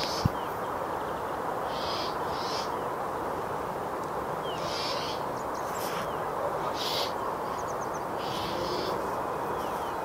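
Bird calls over a steady background hiss: short, high, rasping calls come every second or two, with a few faint chirps between them.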